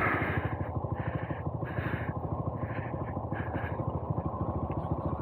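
Honda Monkey 125's single-cylinder engine idling steadily with an even, rapid putter while the bike sits still.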